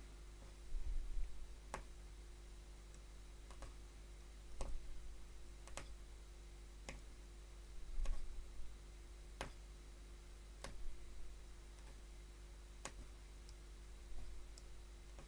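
Hollow punch needle piercing fabric stretched in a hoop, making faint, sharp clicks at uneven spacing, roughly one a second, as thread loops are punched.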